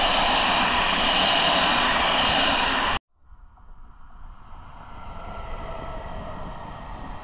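A train passing close by: a loud, steady rushing rolling noise that cuts off abruptly about three seconds in. A much quieter train sound follows, with a faint whine, slowly growing louder.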